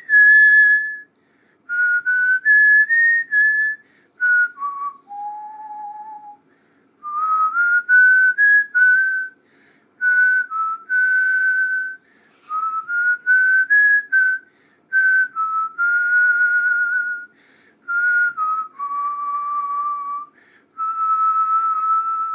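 A person whistling a tune: a single clear note that steps and slides between held pitches, in phrases of a few seconds with short breaks between them.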